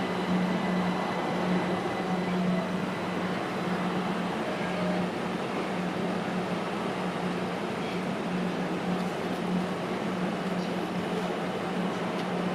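A train, humming steadily over an even rumble.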